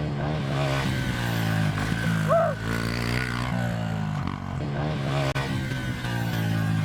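110 cc four-stroke pit bike engines revving up and down through the gears, with background music underneath.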